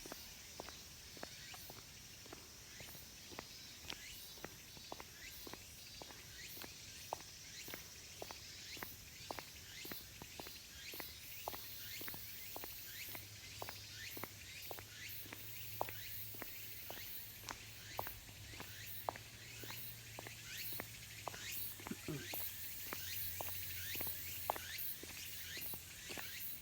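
Walking footsteps, about two steps a second, over a steady background chorus of cicadas.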